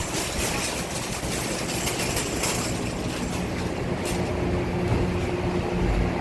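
Steady vehicle noise: a motor running with a rumble, joined about three seconds in by a low, even hum.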